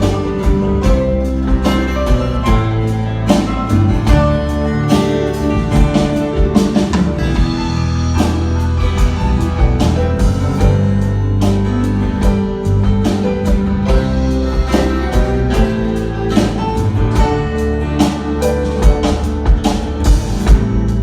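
Live band playing an instrumental break in a country-style song: guitars over a steady beat on drum kit.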